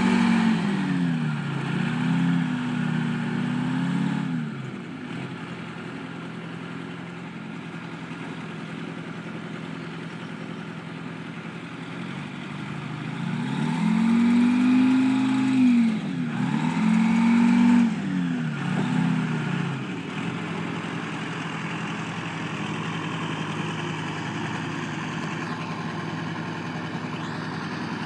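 Trackmobile railcar mover's engine, revved up and down several times near the start and again about halfway through, idling steadily in between and afterwards.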